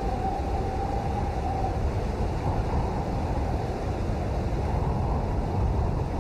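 Steady rain falling: a dense, even hiss of many drops, heaviest in the low range, at a constant level throughout.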